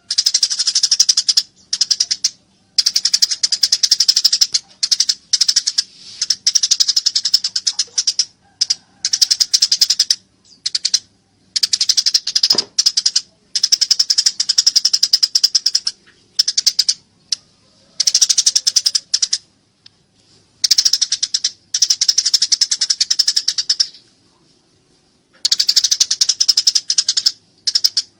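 Eurasian tree sparrows chattering in the rapid, agitated calls of fighting sparrows: high-pitched bursts of fast repeated chirps, each lasting up to a couple of seconds, with short gaps between them.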